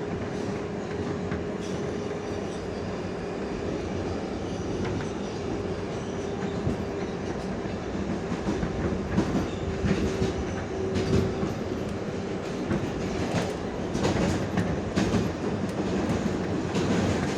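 R142A subway train running at speed through the tunnel, heard from inside the car: a steady rumble with a constant hum, and wheels clacking over rail joints, with the clacks getting louder and more frequent in the second half.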